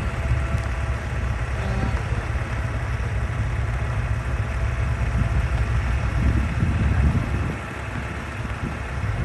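Heavy diesel truck engine running steadily, with a deep low rumble that eases off slightly about seven and a half seconds in.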